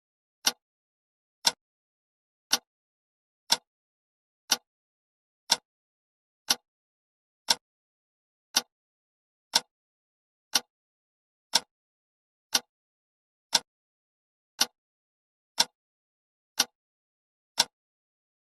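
Countdown timer sound effect ticking: a sharp, dry click once a second, every tick alike and evenly spaced.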